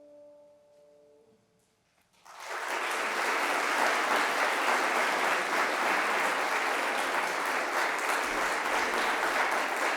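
The last held chord of a choral piece fades out, a short hush follows, and about two seconds in the audience breaks into applause that continues steadily.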